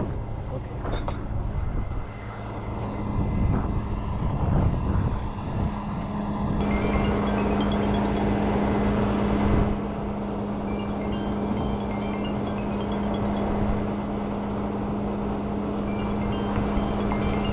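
Truck engine running steadily, a constant low hum with no change in speed.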